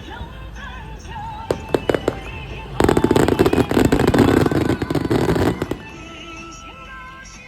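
Fireworks going off: a few sharp cracks, then about three seconds in a loud, dense run of rapid crackling lasting roughly three seconds, with music playing underneath.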